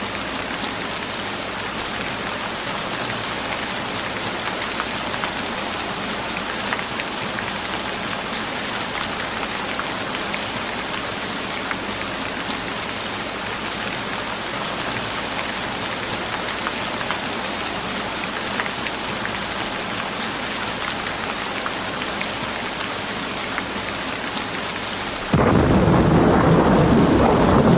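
Steady rain falling, an even dense hiss. Near the end a much louder low rumble of thunder starts abruptly and keeps going.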